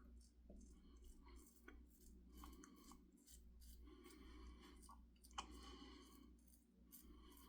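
Faint scrape of a Kamasori shavette's blade cutting through stubble on the chin, in a series of short strokes, with one sharp click about five seconds in.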